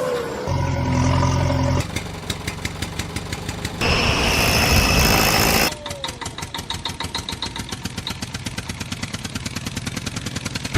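Tractor engine sounds, chugging in fast, even pulses. The sound changes abruptly several times, with a steady low hum near the start and a noisier stretch with a high whine in the middle.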